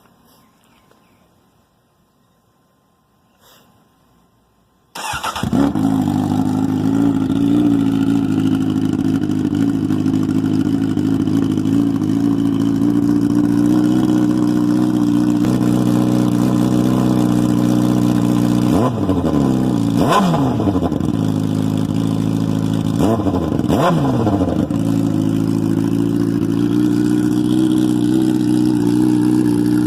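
Motorcycle engine starting after a few quiet seconds with faint clicks, catching at once and settling into a steady idle. The throttle is blipped four times in two quick pairs past the middle, each rev rising and dropping back to idle.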